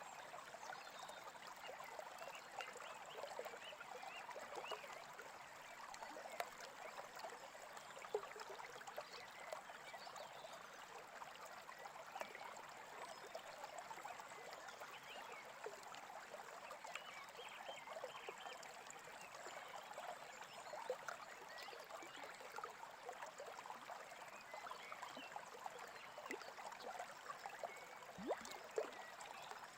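Small stream babbling and trickling steadily, a soft, even rush of running water.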